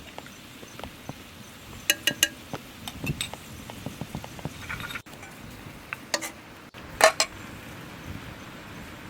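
Kitchenware clinking: a few sharp clinks of utensils against dishes or pots with short ringing, the loudest about seven seconds in, over a steady background hiss.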